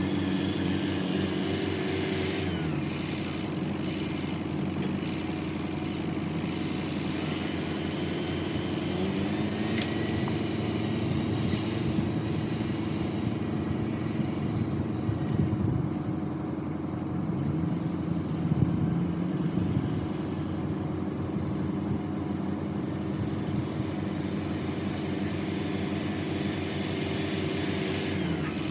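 A diesel engine running steadily, its pitch rising and falling a few times as the revs change, with a few short knocks along the way.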